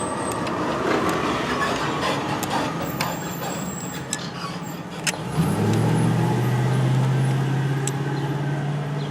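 A motor vehicle engine comes in about halfway through as a low hum, rising briefly and then running steadily, over a background of noise with a few sharp clicks.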